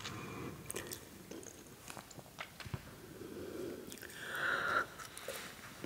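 Close-miked mouth sounds of biting into and chewing a crunchy salty snack: scattered crisp clicks and crunches, with a slightly louder noisy stretch about four seconds in.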